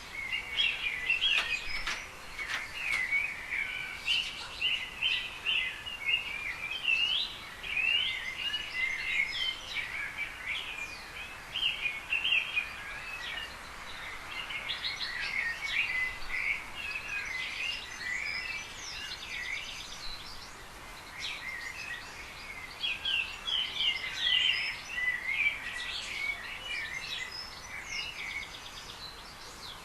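Small songbirds chirping: a busy run of short, high chirps and trills, thinning out now and then before picking up again.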